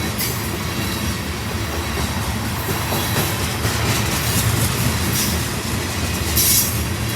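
Train rolling past: steady rumble and clatter of railcar wheels on the rails, with a brief high hiss or squeal from the wheels near the end.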